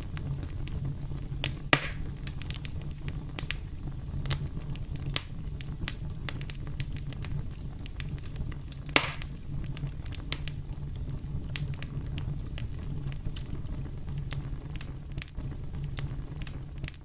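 Wood fire crackling: a steady low rumble of burning with frequent small crackles, and two louder pops, one about two seconds in and one about nine seconds in.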